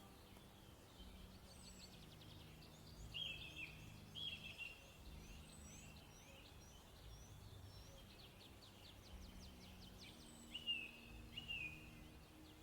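Birds chirping and singing faintly, short high chirps mixed with runs of quick repeated notes, a few louder chirps standing out about three, four and ten seconds in, over a faint low hum.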